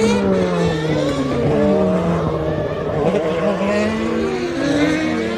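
Several 1990 Formula One cars' naturally aspirated racing engines passing one after another at speed, their pitches sliding down and crossing as each car goes by.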